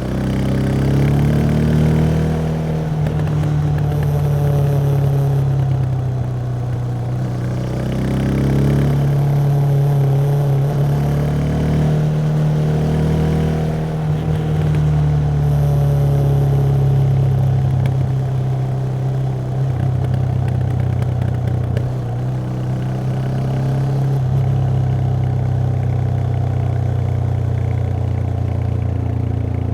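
Yamaha XT 660X single-cylinder four-stroke engine with its stock exhaust, under way on the road. The revs rise and fall several times as the bike accelerates and eases off, then hold steadier in the second half.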